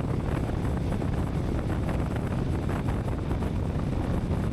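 Wind buffeting the microphone of a camera on a moving Royal Enfield Meteor 350 at highway speed, with the motorcycle's single-cylinder engine running steadily underneath.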